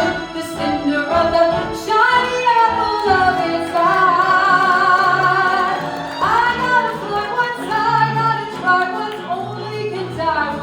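Show music with a singer, probably a woman, holding long sung notes over the accompaniment.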